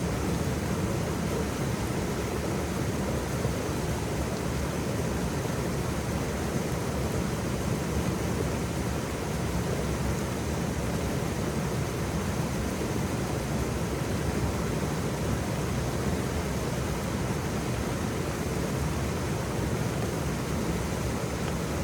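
Waterfall: a steady, full rush of falling water with no change in level.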